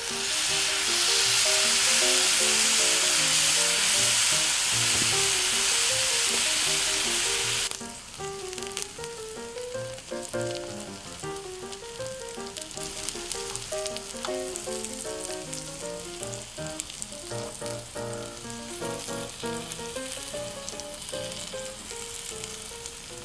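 Food sizzling loudly in a hot pan for about the first eight seconds, then dropping suddenly to a quieter sizzle with light crackles. Background music plays throughout.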